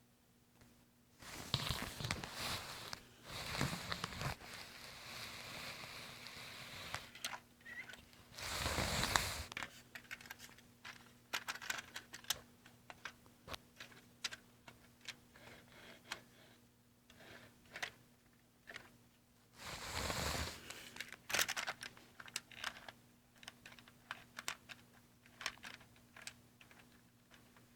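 HO scale model train running on its track, a steady patter of small clicks from the wheels crossing the rail joints over a faint steady hum. Three louder rushes of rustling noise break in, a couple of seconds in, about nine seconds in, and about twenty seconds in.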